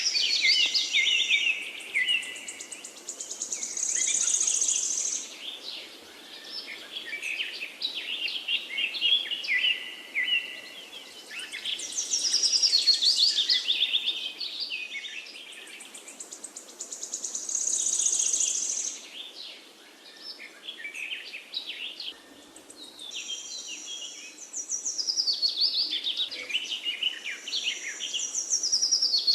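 Songbirds singing, high-pitched chirping phrases of a few seconds each that come back again and again over a faint steady hiss.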